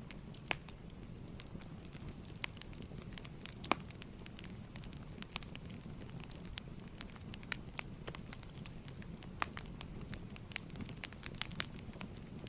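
Wood fire burning in a fireplace: a steady low rumble with irregular sharp crackles and pops, a few of them louder.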